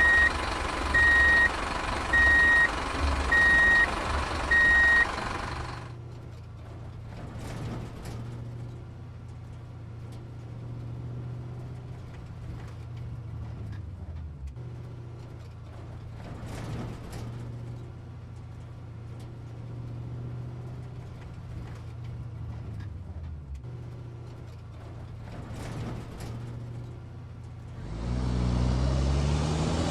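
A truck's reversing alarm beeping about once every second over a running engine. After about five seconds the beeping stops and a low engine hum runs quietly with a few clicks, and near the end another engine grows loud, rising in pitch.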